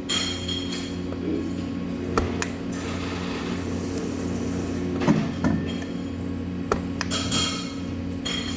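Steady machine hum with scattered metallic clinks and knocks of metal being handled in a welding shop.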